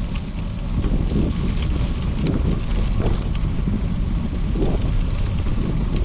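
Wind buffeting the microphone of a camera on a moving bicycle, a loud uneven rumble, with faint crackling ticks from tyres rolling on gravel.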